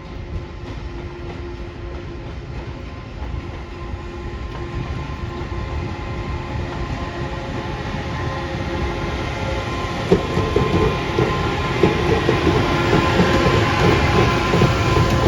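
A train approaching, its rumble growing steadily louder, with wheels clacking over the rail joints from about ten seconds in.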